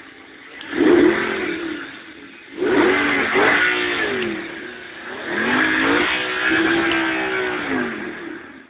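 Audi R8 engine revved three times from idle: a short blip about a second in, then two longer revs, each climbing in pitch and falling back to idle.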